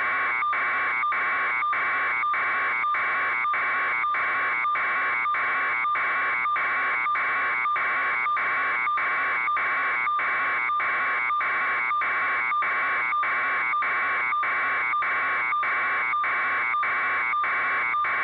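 Electronic buzzer-like alarm tone, pulsing evenly a little over twice a second without a break.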